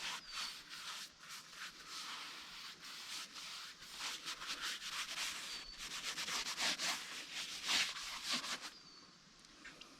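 Irregular rubbing and scraping strokes on wood, repeated and uneven, fading out near the end.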